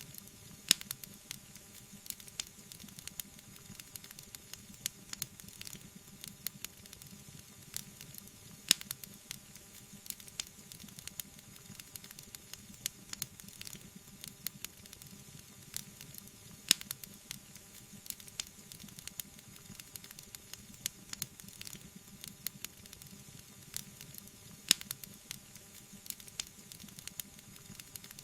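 Wood fire crackling: frequent sharp pops and ticks over a soft steady hiss, with a few much louder pops.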